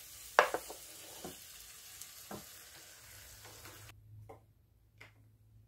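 Beef cubes sizzling in a hot wok while a wooden spatula stirs them, with several sharp scrapes and knocks of the spatula against the pan. About four seconds in the frying sound cuts off, leaving a faint hum and a couple of light ticks.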